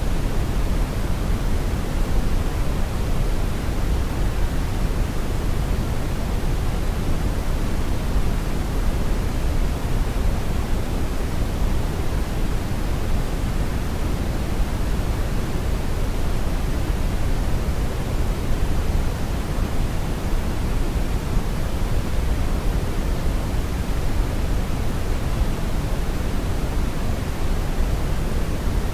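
Steady brown noise: an even, deep rushing hiss, strongest in the low end and falling off toward the top, with no changes or events.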